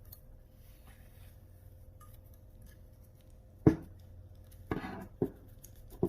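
Light handling sounds on a sewing machine being cleaned: a quiet stretch, then one sharp click a little past halfway and a few softer knocks near the end.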